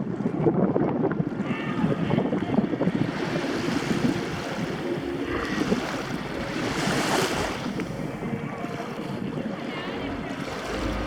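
Sea water rushing and splashing along a sailboat's hull, with a louder splash about seven seconds in. Wind buffets the microphone, rumbling near the end.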